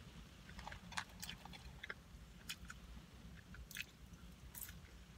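Close-up mouth sounds of a person chewing fast food (a McDonald's burger), with many short, sharp wet clicks and smacks scattered through, over a low steady rumble.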